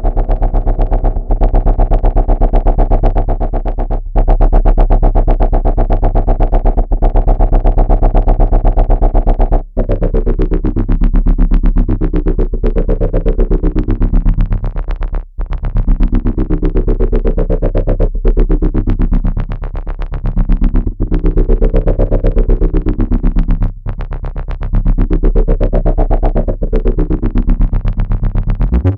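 Arturia Buchla Easel synthesizer playing a low, buzzy sustained drone that cuts out briefly about every three seconds. From about ten seconds in, its tone sweeps up and back down again and again, a few seconds per sweep.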